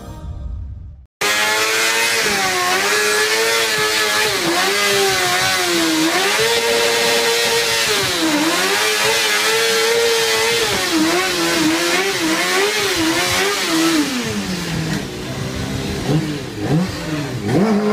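Motorcycle engine revving, starting about a second in after a brief silence, its pitch rising and dipping over and over. Near the end the revs swing up and down faster and more sharply.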